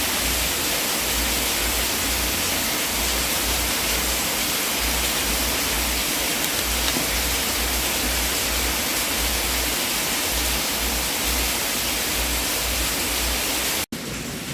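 Fire burning in a fireplace: a steady rushing hiss with a low, evenly pulsing rumble underneath. Near the end it cuts out for an instant, then carries on quieter.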